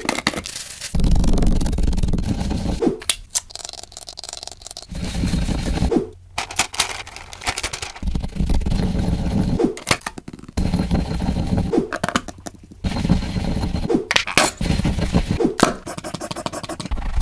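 A parrot eating a crunchy snack: irregular crunching and sharp cracks, with stretches of rustling and scraping.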